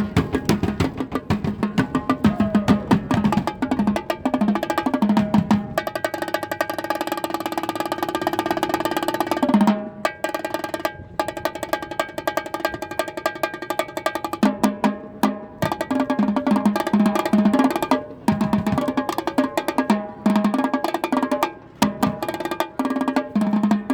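Music with fast drumming, snare-like hits and clicky wood-block strokes over a low pulsing beat, with sustained pitched tones on top; it breaks off briefly about ten seconds in.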